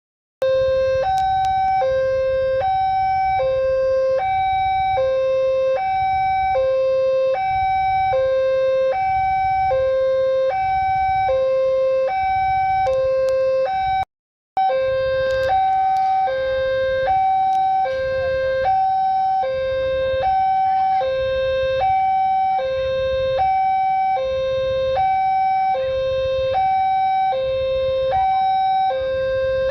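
Electronic two-tone hi-lo siren, alternating steadily between a low and a high note about every three-quarters of a second. It cuts out briefly about halfway through.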